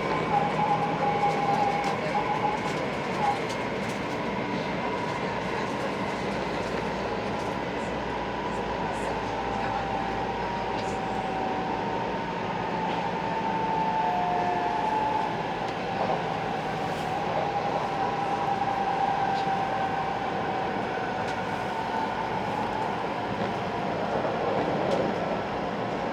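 Running noise inside a 500 series Shinkansen car at speed: a steady rumble and rush of noise with faint whining tones that drift slightly in pitch.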